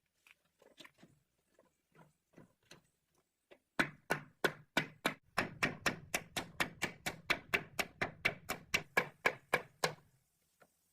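A few soft, scattered knocks, then a fast, steady run of sharp strikes, about four or five a second, starting about four seconds in and stopping near the end.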